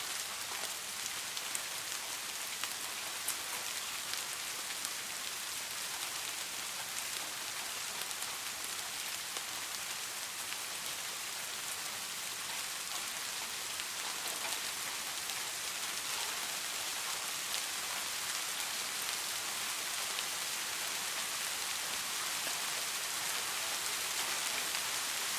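Steady rain falling, an even hiss of rain on a surface with scattered individual drop ticks.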